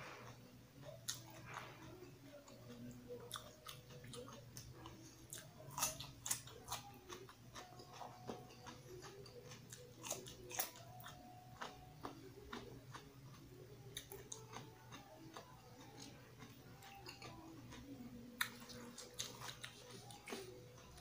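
Biting and chewing of crunchy raw vegetables: irregular sharp crunches with quieter chewing in between.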